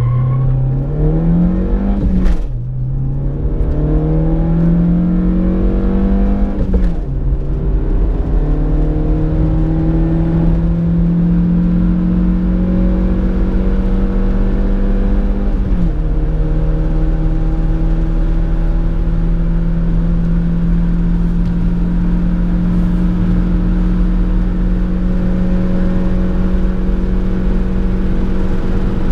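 Citroën Berlingo 1.6's engine at full throttle, heard from inside the cabin, rising in pitch as the van accelerates. It shifts up three times, about two, seven and sixteen seconds in, and the revs drop at each change. The first two changes bring a brief clunk, and after the last one the pitch climbs only slowly.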